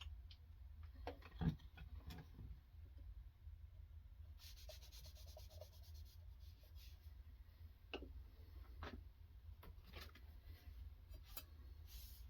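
Faint rubbing and scraping of a sharpening stone on a guided sharpening system being drawn along a knife edge, with a single knock about a second and a half in and a few light clicks later.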